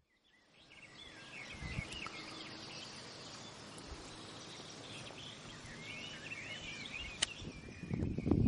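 Songbirds chirping and warbling over faint outdoor background noise, with a single sharp click about seven seconds in and a low rumble of wind on the microphone starting near the end.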